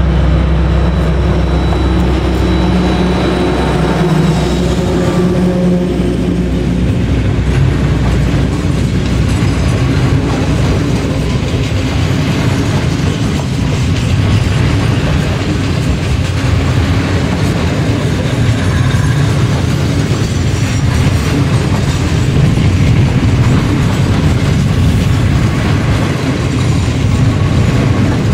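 ST44 (M62) diesel locomotive passing under power, its two-stroke V12 diesel engine giving a steady low drone for the first several seconds. After that comes the steady rolling noise of a long train of loaded timber wagons going by, their wheels clacking over the rail joints.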